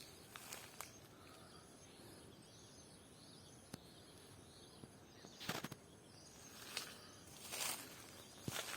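A few scattered footsteps crunching on the ground, spaced irregularly and loudest in the second half. They come over a quiet rural background with faint bird chirps.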